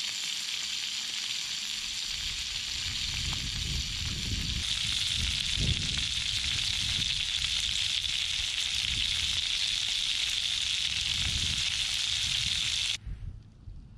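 Bacon-wrapped jalapeño poppers sizzling in hot bacon fat in a Trangia camp pan. The sizzle steps up louder about four and a half seconds in and cuts off suddenly near the end.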